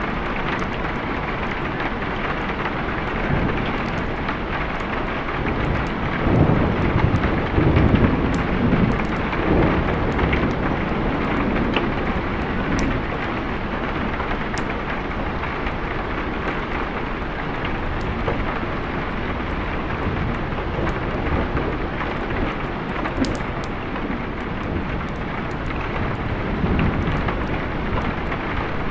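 Steady heavy rain, with a low rolling rumble of thunder that swells about six seconds in and dies away a few seconds later.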